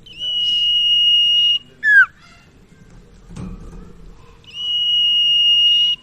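Common iora (sirtu/cipoh) song: a long, steady, high whistle held for about a second and a half, then a short, sharply down-slurred note. The long whistle comes again near the end.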